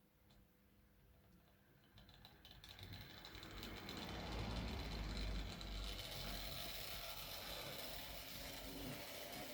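Hornby Dublo R1 model tank locomotive running on the track, its small electric motor whirring and its wheels clicking along the rails. It starts about two seconds in, grows louder over the next few seconds, then runs on steadily.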